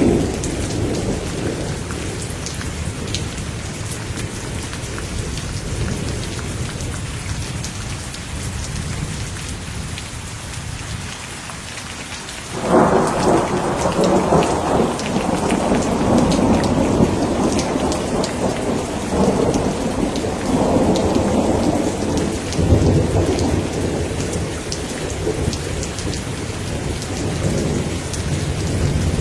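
Steady rain falling, with thunder rumbling. About halfway through, a loud thunderclap breaks in suddenly and rolls on in swells for about ten seconds before dying back to the rain.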